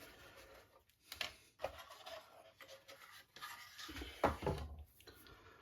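Quiet handling of thin wooden model-boat parts on a workbench: a few light knocks and rubs, the loudest a little over a second in and again about four seconds in.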